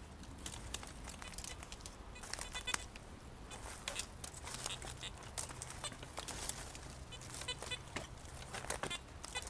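Crackling and rustling of dry leaf litter and twigs on the forest floor, from footsteps or digging, with a few short high chirps.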